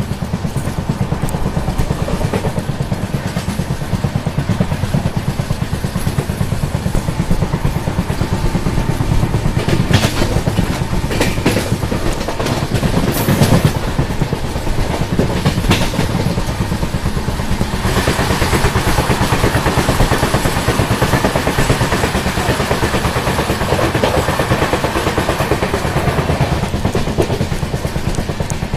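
Indian Railways passenger train in motion, heard from an open coach door: a steady rumble with the wheels clacking rapidly on the rails. There are sharper clanks from about ten to sixteen seconds in as it runs over points, and the sound grows harsher from about eighteen seconds on.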